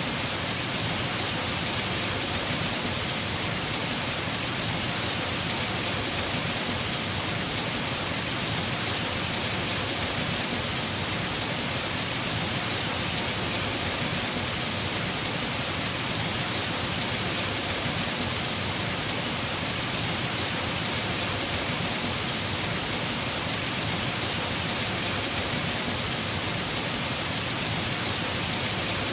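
Heavy rain falling on a house roof: a steady, even hiss with no breaks.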